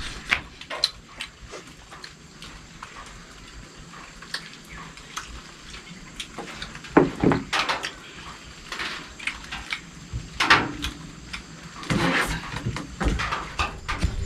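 Scattered clinks and knocks of plates and eating utensils during a meal, a few louder ones now and then, over a faint steady hiss.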